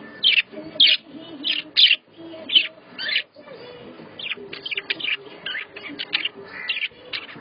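Pet budgerigars and lovebirds chirping: a string of sharp, high calls about two a second, then a quicker, fainter run of chirps from about four seconds in.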